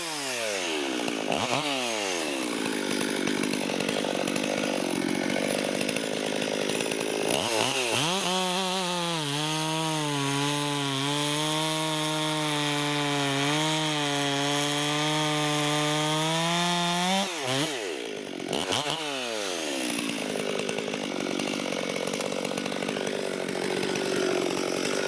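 Ported Stihl 440/460 hybrid chainsaw cutting wood at full throttle. The engine note drops off and revs back up a few times, and holds a high, steady pitch for several seconds in the middle.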